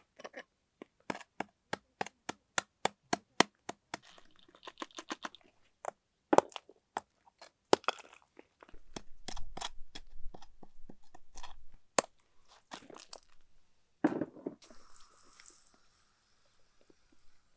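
Sharp knocks and cracks of work on wooden concrete forms: first a quick regular run of about four knocks a second, then scattered knocks, with a short hiss near the end.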